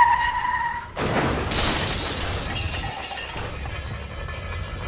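Low-speed collision as a truck rolling backwards hits the front of the car. A steady held tone cuts off about a second in with a sudden impact. A loud crunch and shattering of breaking car parts follows and slowly dies away over the next few seconds.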